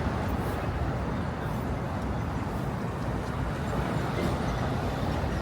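City street ambience: a steady wash of passing traffic noise.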